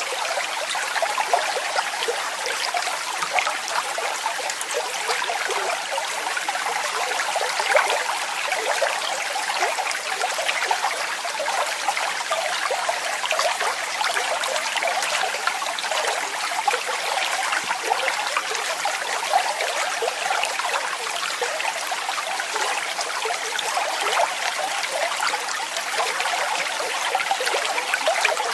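Small waterfall splashing steadily: an even hiss of falling water full of small splashes, with little deep rumble.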